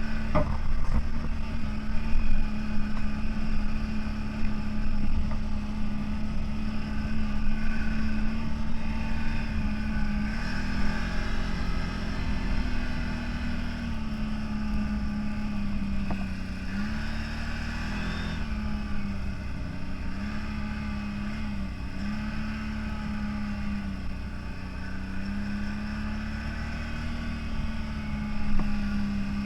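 CFMoto 1000 off-road vehicle's engine running steadily under way over a low rumble. Its note rises and dips slightly several times from about ten seconds in as the throttle changes.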